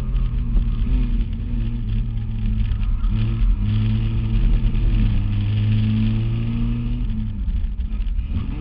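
Race car engine heard from inside the cabin, running hard under load. Its note dips briefly about three seconds in, climbs and holds high, then drops again near the end before rising once more.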